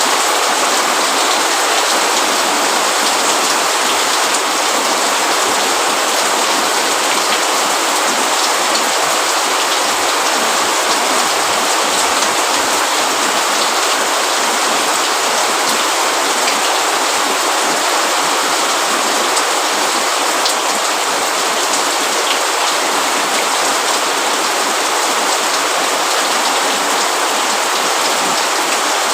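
Steady rain falling, a dense even hiss with many small drop ticks. It is the sound of drops on a roof and on leaves.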